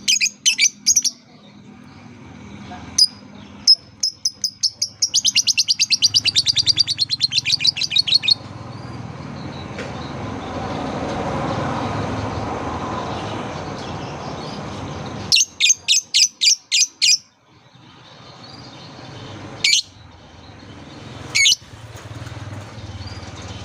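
Lovebird calls: a few sharp chirps, then a rapid run of shrill repeated notes, about seven a second, for some four seconds, a shorter burst later and two single calls near the end. In the middle a rushing noise swells and fades for several seconds.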